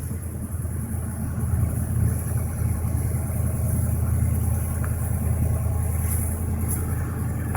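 Excavator engine running steadily with a low hum, with a few faint clicks in the second half.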